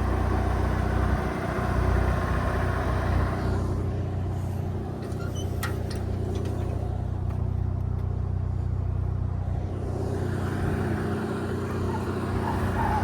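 Car engine running steadily at a warm-up idle, with a low, even hum.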